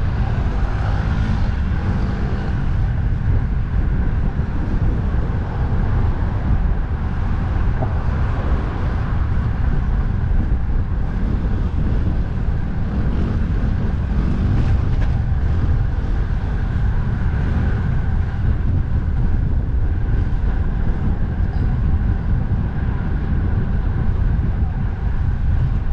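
Steady wind rushing over the microphone, with road traffic noise underneath.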